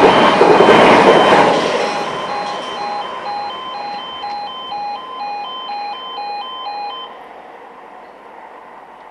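A passing train's rumble fades away after about a second and a half, while the level crossing's alternating two-tone warning alarm keeps sounding and stops about 7 seconds in.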